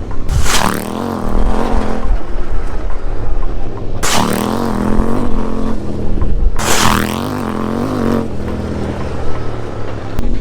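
KTM 790 R Rally's parallel-twin engine, running through a decatted link pipe with the baffle in, being ridden hard, its revs wavering up and down as the throttle opens and closes. Three loud rushing bursts come about half a second in, at about four seconds and just before seven seconds.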